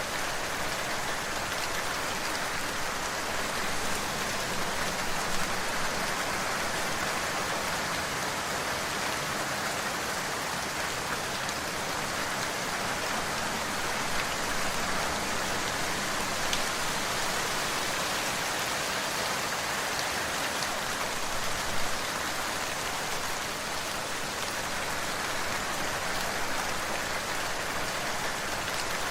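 Steady rain falling, an even hiss with a few faint drop ticks standing out now and then.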